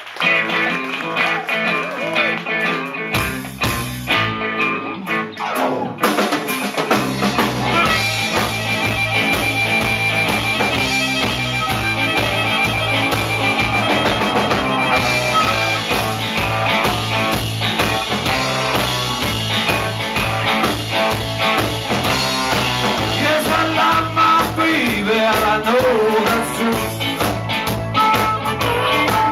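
A band playing blues-rock with guitar to the fore. The bass and drums come in fully about seven seconds in and keep a steady beat.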